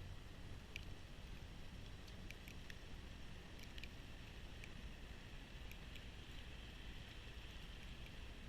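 Kubota B2650 compact diesel tractor running steadily with its B2782 front-mount snowblower: a low, even drone with faint scattered ticks.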